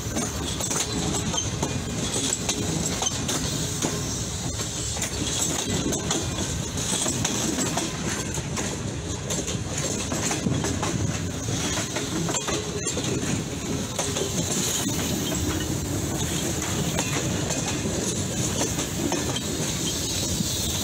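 Passenger coaches of the Karakoram Express rolling past at close range: a steady rumble of wheels on the rails, with clickety-clack over the rail joints.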